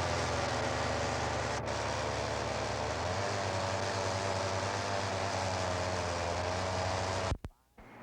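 A vehicle running steadily: a low engine drone under a hiss, shifting slightly about three seconds in, then cutting off abruptly near the end.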